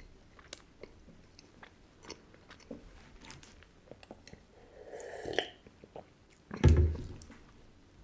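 Close-up chewing of soft, crumbly sandwich cookies filled with boiled condensed milk, with small mouth clicks throughout. Around five seconds in comes a drink from a glass mug, and about a second later a louder low thump.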